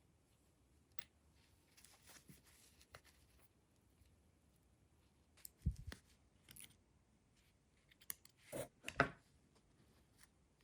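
Small metal parts being handled: scattered light clicks and scrapes, a dull knock about halfway through, and two louder scraping sounds near the end.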